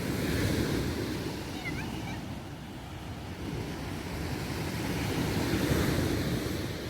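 Sea waves breaking and washing up the shore, swelling about half a second in and again near the end.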